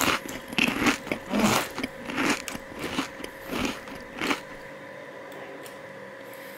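A person biting into and chewing a soft pink layered Indian sweet close to the microphone: a string of short wet mouth and chewing noises about twice a second for the first four seconds, after which only a faint steady hum remains.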